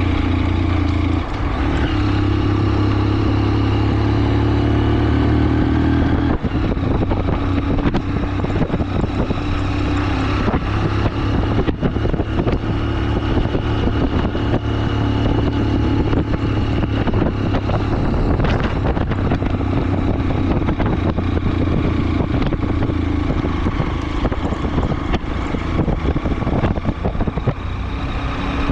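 A motor vehicle's engine running steadily with road noise, its low hum shifting pitch a couple of times in the first seconds.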